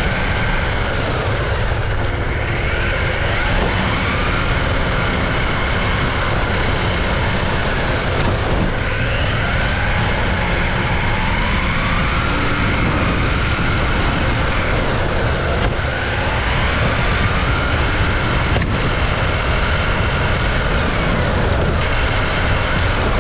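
Electric motors of radio-controlled cars whining, the pitch rising and falling repeatedly as the cars speed up and slow down, over a steady rushing noise.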